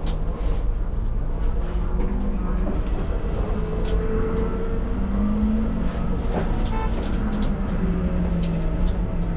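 Car engine idling steadily, a low even hum with slowly wavering tones, with a few light clicks over it.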